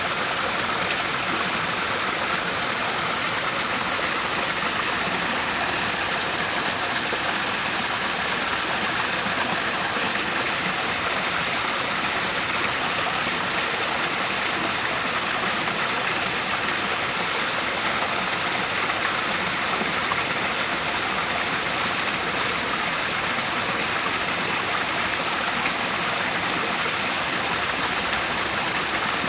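Waterfall running steadily, a continuous rush of falling water.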